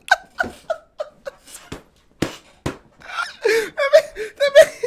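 A man laughing hard: short breathless, wheezing bursts of laughter with gasps in between, rising into pitched, wavering laughs near the end.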